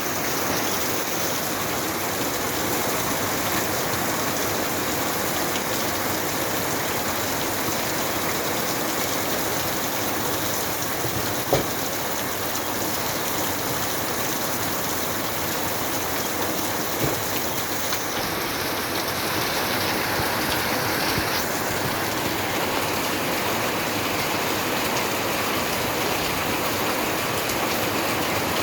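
Steady rain falling and pattering on surfaces, with one sharp tap a little before halfway.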